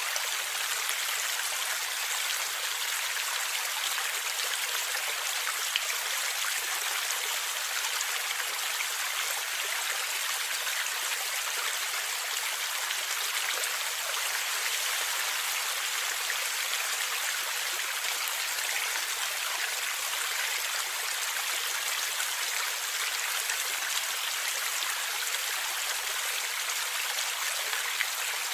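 Forest stream water flowing and gurgling steadily over rocks, an even, unbroken rush of water.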